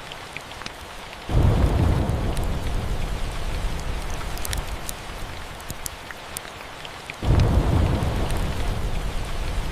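Steady rain with two rolls of thunder, one starting suddenly about a second in and another about seven seconds in, each a deep rumble that fades slowly. Scattered faint crackles run over the rain.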